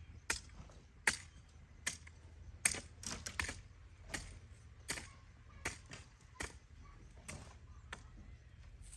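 A series of sharp knocks or taps, about one or two a second at an uneven pace, with a quick cluster of several around three seconds in.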